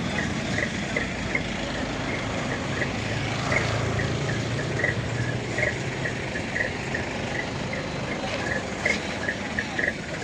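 Heavy truck engine running steadily, its low hum rising somewhat about three seconds in and easing off after six. A short, high chirp repeats two to three times a second throughout.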